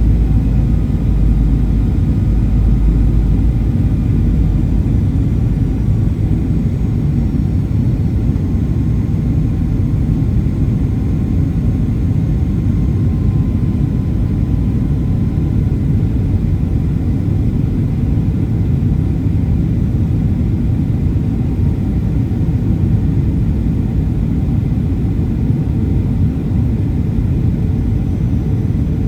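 Steady cabin noise inside a Boeing 737-800: the low rumble of its CFM56-7B engines and the rush of air past the fuselage, with a faint steady whine above. The very deepest part of the rumble eases about four seconds in.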